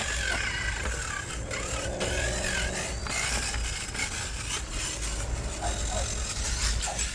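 Whine of a 1/10-scale RC rock crawler's electric motor and gears, rising and falling in pitch as the throttle is worked over the first few seconds, with small scrapes of the tyres and chassis on the course.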